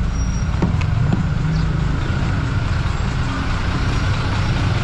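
Steady low rumble of road traffic and vehicle engines, with two short clicks about half a second and a second in.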